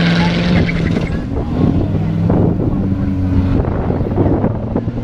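Car engine running loudly at fairly steady revs, the pitch shifting about three and a half seconds in.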